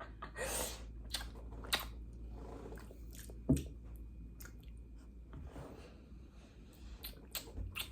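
Quiet wet mouth sounds: lips smacking and clicking in a close kiss, a scattering of short clicks with one sharper smack about three and a half seconds in.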